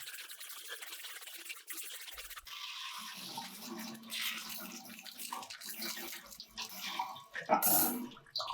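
Irregular scrubbing and rubbing noise with small clicks and knocks, louder near the end.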